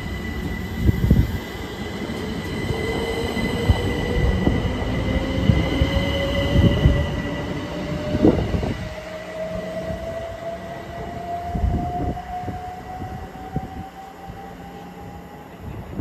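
Electric multiple-unit passenger train pulling out past the platform. Its motor whine rises steadily in pitch as it picks up speed, over wheel rumble and several knocks from the rails, and the sound fades over the second half as the train moves off.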